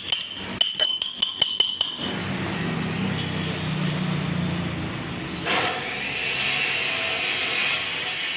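Metal-on-metal clinks, about eight sharp strikes in quick succession, as steel truck gearbox parts are knocked and handled with tools during dismantling. A steady low hum follows, and a hiss comes in over the last few seconds.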